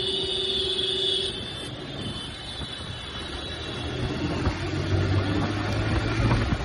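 Motorcycle engine running on the move with road and wind noise, growing louder from about four seconds in as the engine note rises. A steady whine is also heard and stops about a second in.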